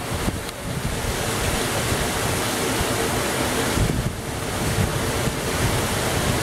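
Heavy rain pouring down steadily, with wind buffeting the microphone in uneven low rumbles.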